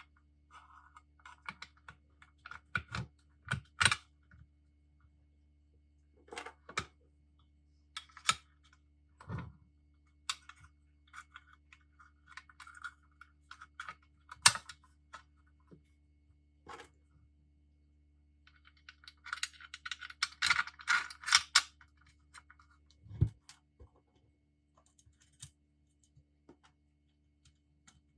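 Small metal parts and hand tools being handled during a nail gun rebuild: scattered sharp clicks and light knocks, with a busy run of rapid clicking about two-thirds of the way in.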